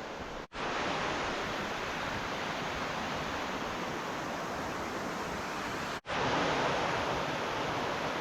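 Steady rushing roar of a waterfall, an even wash of falling water, broken by two very short gaps of silence, about half a second in and about six seconds in.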